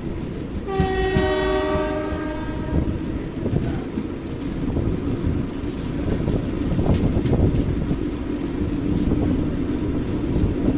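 Passenger train running, a steady rumble with knocks and rattles of the wheels on the track, heard from inside the coach. About a second in, the locomotive horn sounds for about two seconds.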